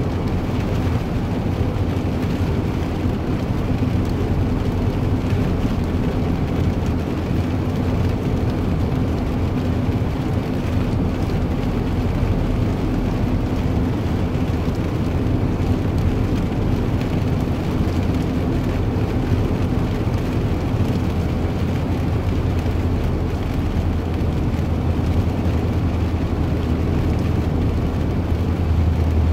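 Steady, unbroken low mechanical drone with a constant hum, like a vehicle engine running at an even speed.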